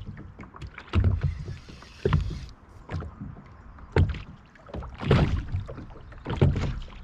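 Water slapping against the hull of a small rotomoulded plastic boat, with five uneven knocks a second or two apart.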